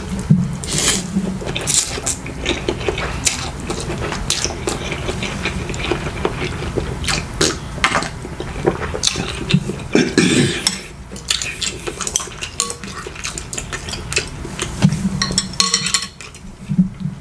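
Cutlery clinking and scraping against dishes in many irregular sharp clicks, over a steady low hum.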